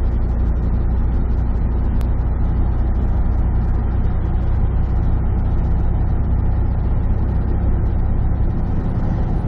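Semi truck's diesel engine running steadily under load as the truck climbs a grade, heard from inside the cab as a constant low drone with road noise.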